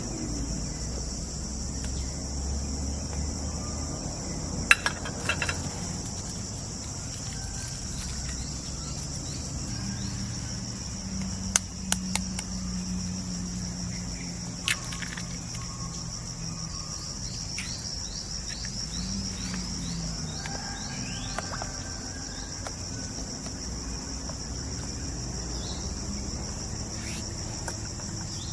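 A steady, high-pitched buzzing chorus of tropical forest insects, with a few sharp clicks or knocks and a short run of quick falling chirps partway through.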